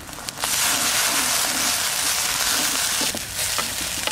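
Chopped pumpkin flowers frying in hot oil in a wok, sizzling as they are stirred with a wooden spatula. The loud hiss starts suddenly about half a second in and eases slightly near the end.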